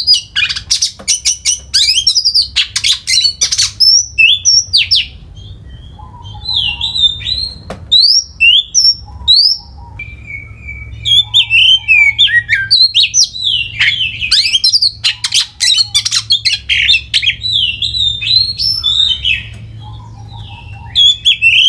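Songbird singing loudly in fast, varied phrases of rapid chirps, trills and quick rising and falling whistles, broken by short pauses about five and ten seconds in and again near the end. A steady low hum runs underneath.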